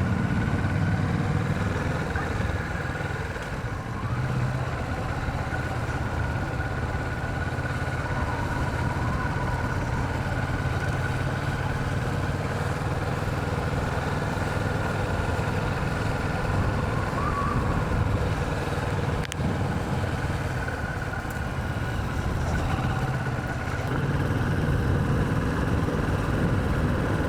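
Kawasaki Vulcan 650's parallel-twin engine running steadily as the motorcycle is ridden at low speed, the level holding even throughout.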